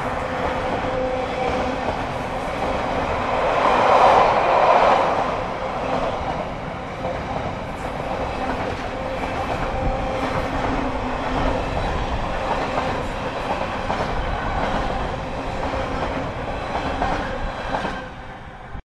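Container flat wagons of an intermodal freight train rolling past on the rails: a steady rumble of wheels on track with a faint ringing tone, swelling louder near the start and about four seconds in. The sound drops away near the end as the last wagon clears.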